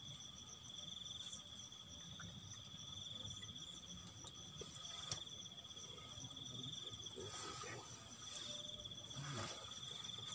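Insects trilling steadily in a high, finely pulsing tone, with a faint click about five seconds in.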